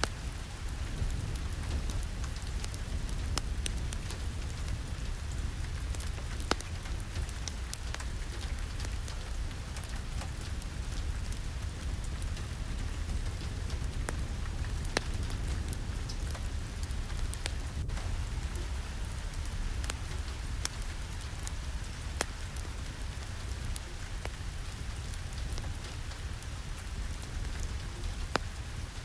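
Steady rain falling on a surface, with a deep low rumble underneath and scattered sharp ticks of individual drops.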